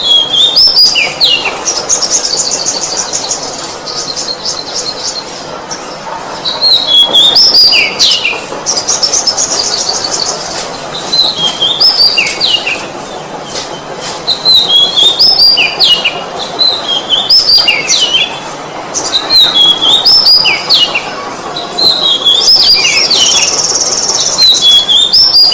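Oriental magpie-robin singing continuously, in short phrases of quick whistled notes that drop in pitch, repeated every second or two. Three times a rapid high trill breaks in.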